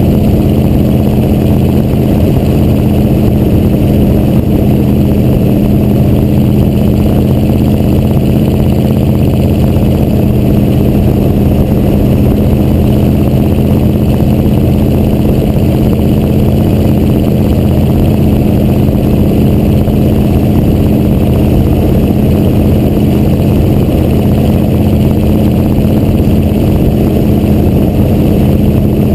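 Chevrolet 6.2 Detroit diesel V8 running loud and steady through its exhaust stacks, with no rise or fall in engine speed.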